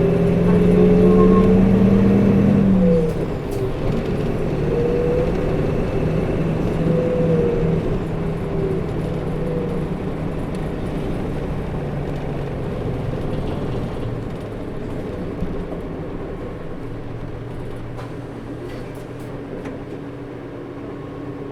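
Interior running sound of a 2008 Nissan Diesel Space Runner RA (PKG-RA274KAN) city bus accelerating. The engine note climbs, breaks at a gear change about three seconds in, and climbs again. It then eases off and gets quieter, with the engine's coupling cooling fan running throughout.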